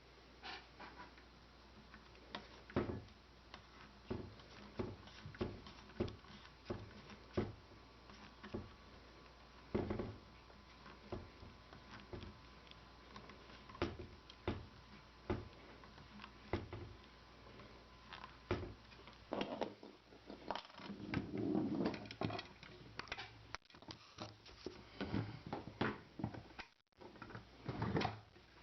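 Irregular clicks, taps and knocks of metal and wooden Lee Enfield No.4 rifle parts being handled and fitted during reassembly, as the long bolt is worked through the stock. A longer rustling scrape comes about 21 seconds in.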